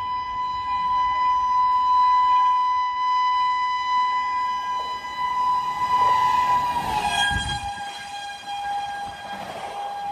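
Indian express train's horn held in one long blast as the train approaches at speed; about seven seconds in, its pitch drops as the train passes, with a brief rush of train noise.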